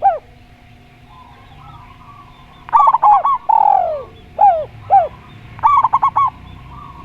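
Dove cooing: after a pause of about two and a half seconds, a quick run of short clipped notes, a long falling coo, two single falling notes and another fast run of short notes.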